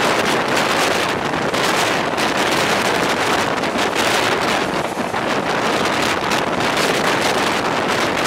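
A passenger train running at speed, with wind rushing and buffeting against the microphone in a loud, steady roar that flutters with gusts.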